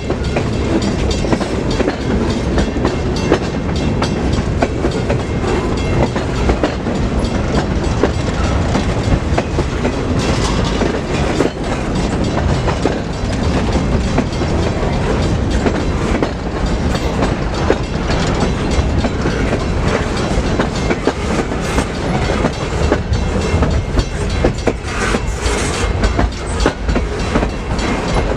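Freight train cars rolling past close by, the wheels clicking steadily over rail joints with a continuous rumble.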